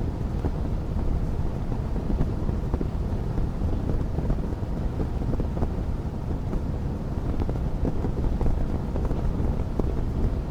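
Wood fire crackling with frequent small pops over a steady low rumble.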